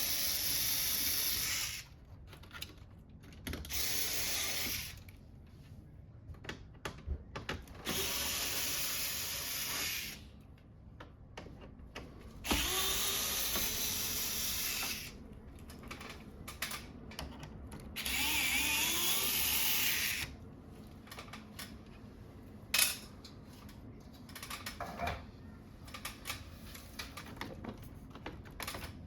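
Electric screwdriver running in five short bursts of one to two seconds each, backing out screws as an air conditioner is dismantled. Small clicks and knocks of parts being handled come between the bursts.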